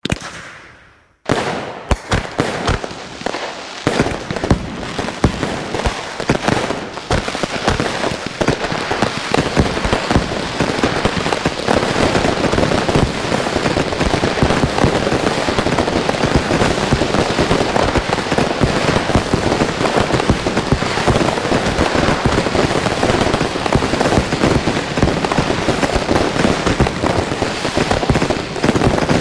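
Fireworks going off: one bang right at the start that fades away, then after a short pause a quickening run of sharp cracks and bangs. Within several seconds it thickens into continuous dense crackling, with many going off at once.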